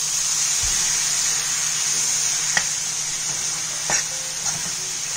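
Raw jackfruit stir-fry sizzling steadily in oil in a kadai while a metal spatula stirs it, the spatula clicking against the pan a few times in the second half.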